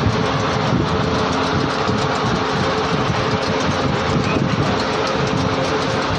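Ship's machinery running steadily: a continuous mechanical din with a low, even hum and rumble.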